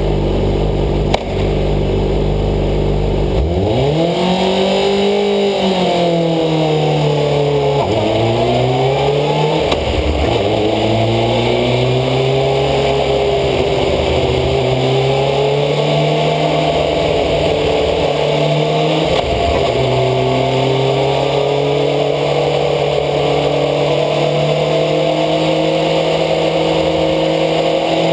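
Motorcycle engine under test, steady at first, then revving up through the gears: its pitch rises, drops sharply at each of several gear changes, and climbs slowly and steadily near the end.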